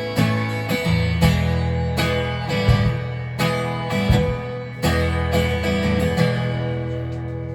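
Acoustic guitar strumming chords in the instrumental opening of a live song, each stroke left to ring, dying away near the end.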